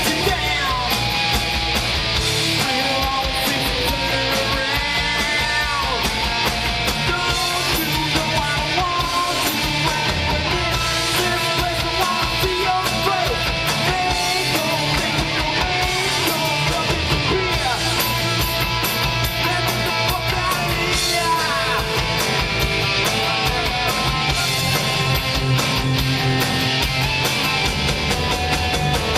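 Rock band playing a heavy, guitar-driven song, with guitar and a steady beat, on a rough recording.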